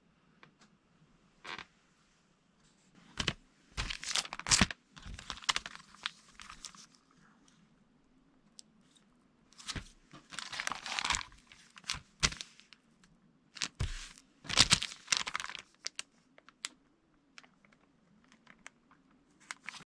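Irregular rustling and crinkling with scattered clicks, like paper or cardboard being handled and torn by hand, coming in several short bouts with gaps between them.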